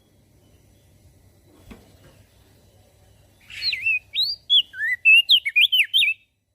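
Crested white-eye (opior jambul) singing a quick phrase of whistled notes that sweep up and down, starting a little past halfway and stopping shortly before the end. Before the song there is only a faint low hum and one soft knock.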